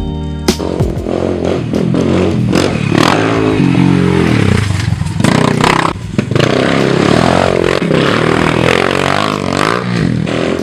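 Small pit bike engine revving up and down again and again as it is ridden, its pitch rising and falling with each twist of the throttle, with a few sharp knocks along the way.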